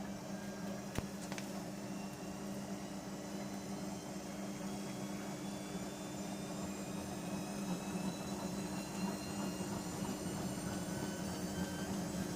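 Bauknecht GreenIntelligence Super Eco 6413 washing machine running with a steady motor hum and a whine that slowly rises in pitch as the drum speeds up. There is a single sharp click about a second in.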